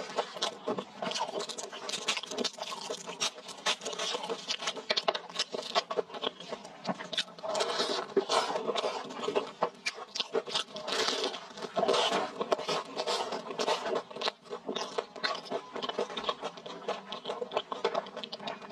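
Close-miked chewing and crunching of crispy fried skewer food, a dense run of small crackles and mouth clicks. Gloved hands pull a fried battered piece apart, adding crackling to the chewing.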